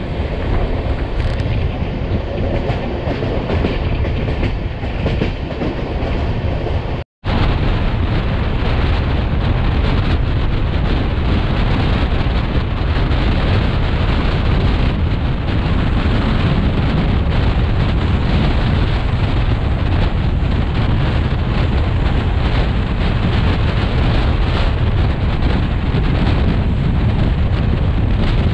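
Durg Humsafar Express passenger train running: a steady noise of wheels on the rails. The sound cuts out for a moment about seven seconds in.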